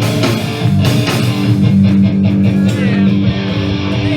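Live hardcore band playing: distorted electric guitar chords held over drum hits.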